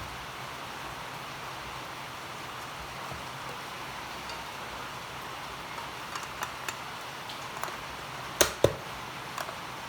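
Steady hiss throughout, joined after about six seconds by a few small clicks and knocks. Two sharper knocks come in quick succession about eight and a half seconds in.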